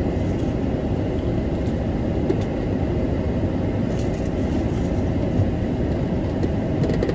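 Steady low rumble inside a parked car with its engine running, with a few faint ticks over it.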